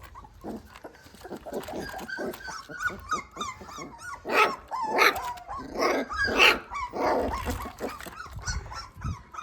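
Puppy whimpering: a run of short, high whines, then several louder yelps from about four seconds in.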